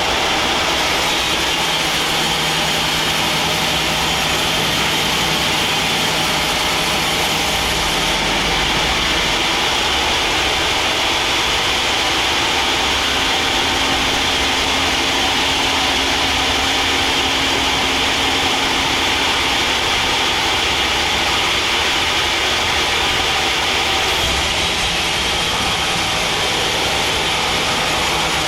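Band sawmill running steadily, a constant machine drone with a few low hums that shift now and then.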